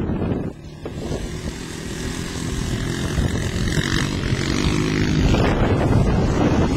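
Motocross dirt bike engine running for a few seconds, with wind buffeting the microphone at the start and again near the end.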